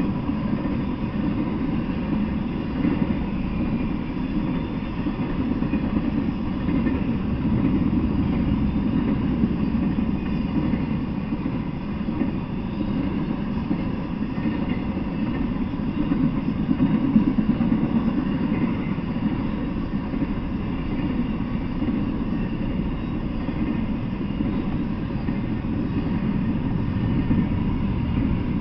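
Intermodal freight train rolling past at a steady pace: a continuous, even rumble of car wheels on the rails.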